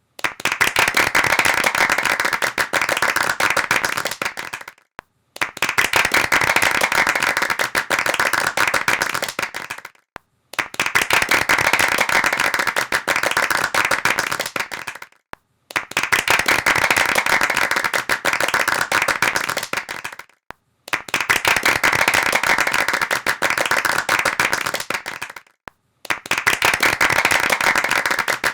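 Hands clapping in applause: dense, rapid claps in bursts of about five seconds, each cut off by a brief silence before the next, six bursts in all.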